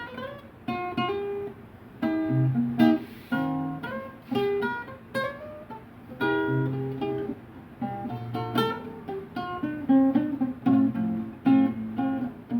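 Acoustic guitar played in an improvised way: chords struck every second or so, each left to ring and fade.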